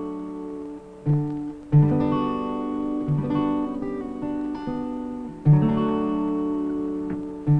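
Acoustic guitar music: chords strummed and plucked, each struck chord left to ring.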